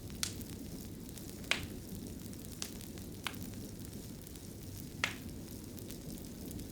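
Fireplace fire crackling: a steady low rumble of flames with sharp pops, five in all. The loudest come about a second and a half in and about five seconds in.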